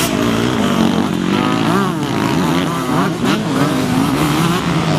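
Several motocross bikes racing, their engines revving up and down in overlapping rising and falling pitches as the riders work the throttles.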